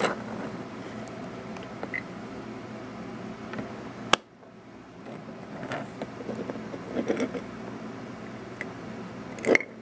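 Faint handling sounds of a small diecast toy truck: scattered light clicks and taps over a low steady room hum, with one sharp click about four seconds in and a louder tap near the end.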